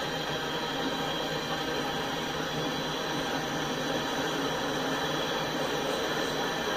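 A freight train of covered hopper cars rolling past, giving a steady noise of steel wheels running on the rails.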